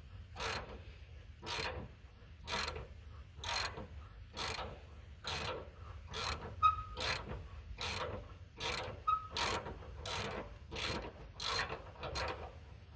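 Hand socket ratchet being worked back and forth on a 19 mm cab shock mount bolt, giving a short burst of ratchet clicks about once a second. The bolt has already been broken loose and is being run out.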